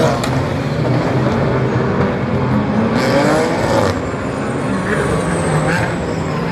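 Racing car engines running at a circuit: a steady low drone, with an engine rising in pitch about two to four seconds in and a brief burst of hiss.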